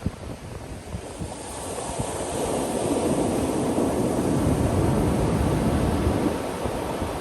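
Ocean surf: a wave breaks and washes in, its rushing noise building from about a second and a half in, loudest in the middle, then easing toward the end. Wind buffets the microphone with a low rumble underneath.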